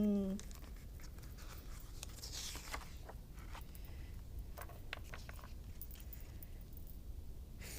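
Faint paper rustle and a few light clicks from a picture book being handled, with a page turning about two and a half seconds in.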